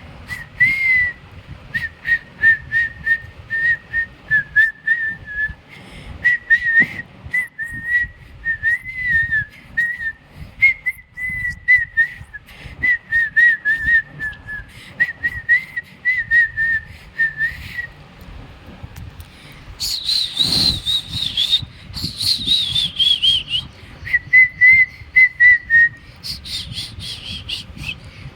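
A person whistling a tune: a single clear whistled note line moving in short wavering phrases, with scattered sharp clicks alongside. About two-thirds of the way through, the whistling jumps to a much higher pitch and slides downward before returning to the lower phrases.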